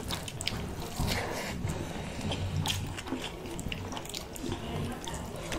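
Close-up eating sounds of two people eating fried chicken and rice with their hands: wet chewing and lip-smacking with scattered short mouth clicks, over a steady low hum.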